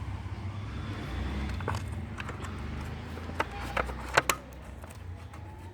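A few sharp clicks and knocks of the Yamaha RX100's oil-tank cover and its fittings being handled as the cover is put back on, over a low rumble.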